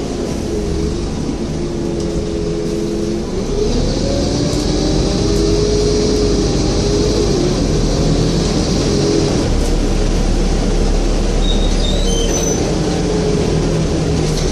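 Scania N230UD double-decker bus's five-cylinder diesel engine running under way, its pitch dropping and then climbing again about three seconds in as the automatic gearbox changes gear. A steady high hiss joins for several seconds in the middle.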